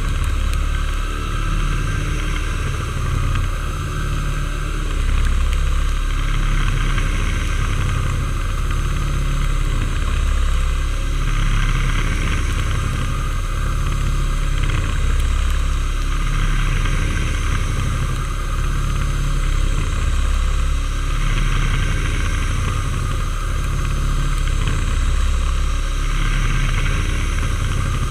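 Metalworking machine tool running steadily under a strong low hum, with a higher hiss that swells and fades every few seconds.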